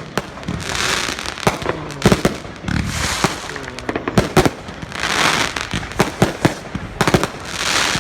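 Fireworks going off: a rapid series of sharp bangs and pops, with a hissing crackle that swells up about every two seconds.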